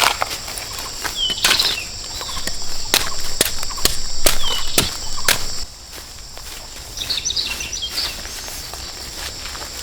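Irregular sharp knocks, about eight of them in the first half, over a steady high insect buzz that cuts off a little over halfway through.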